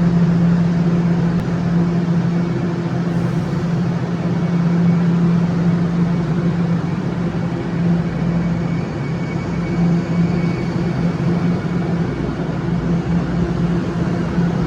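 TTC Line 1 Toronto Rocket subway train sounding in the station: a steady low hum over a continuous rumble, even throughout, with no clear rise or fall.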